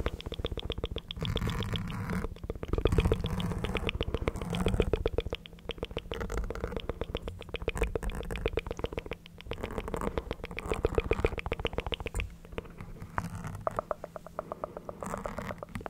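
ASMR mouth sounds close to the microphone: long runs of rapid, evenly spaced clicks over a low rumble, with short pauses between runs.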